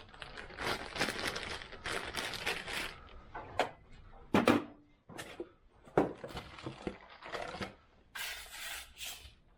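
Rummaging for a small grease fitting: irregular rustling and crinkling with light clatters and a couple of sharp clicks, the loudest a few seconds in.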